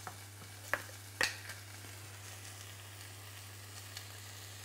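Chicken breasts frying on a griddle pan with a steady quiet sizzle over a low hum. A few sharp clicks come in the first second and a half, the loudest about a second in, as a spice jar is handled.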